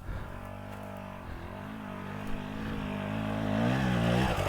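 Dirt bike engine running at low revs, then rising in pitch and getting louder as the throttle is opened over the last second or so.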